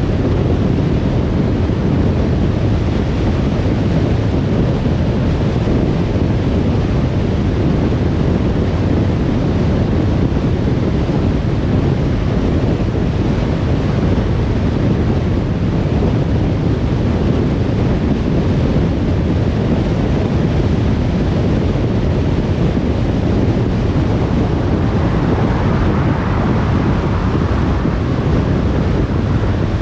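Steady road noise of a car driving: a low tyre and wind rumble. It swells with a brighter hiss for a few seconds near the end.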